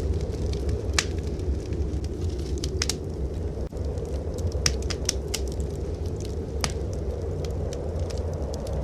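Wood fire crackling in a fireplace, with irregular sharp pops, over a steady low rumble.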